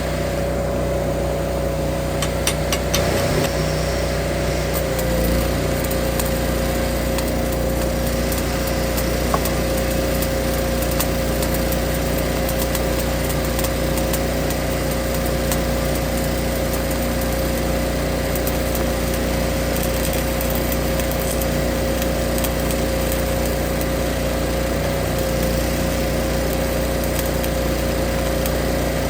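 An engine running steadily under load with a constant high whine, dipping briefly about five seconds in.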